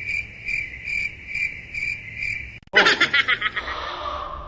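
Cricket chirping, a high tone pulsing about twice a second, cut off abruptly about two and a half seconds in. A short, loud burst of laughter follows and trails off.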